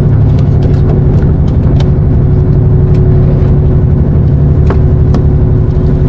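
Fishing boat's engine running steadily underway, a loud low drone with a steady hum, and scattered short clicks over it.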